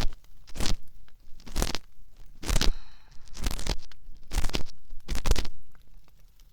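Ear pick scraping inside the ear of a binaural dummy-head microphone: ear-cleaning ASMR. About seven slow, scratchy strokes, roughly one a second, quieter near the end.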